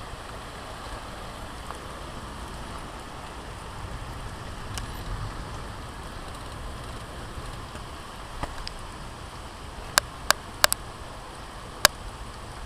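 Steady heavy rain falling. A handful of sharp clicks come in quick succession near the end.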